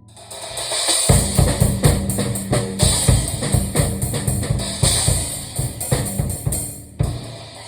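Drum kit played fast, with rapid bass drum and snare hits, over music with guitar. The playing builds in about a second in and eases off near the end.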